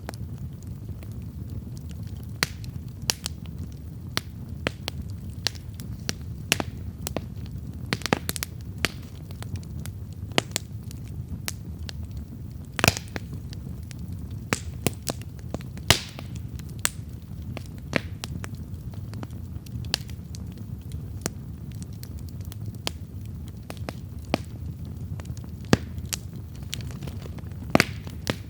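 Wood campfire crackling: irregular sharp pops and snaps of burning wood, several loud ones among many small ones, over a steady low rumble.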